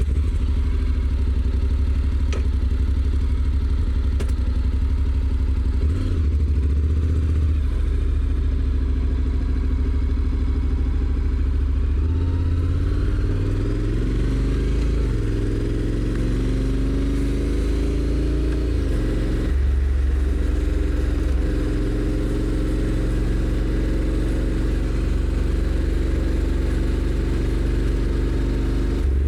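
Honda NC750X's stock-exhaust parallel-twin engine idling steadily for about twelve seconds, then pulling away: the revs rise, drop sharply twice as the DCT automatic gearbox shifts up, about 15 and 19 seconds in, and then settle to a steadier run.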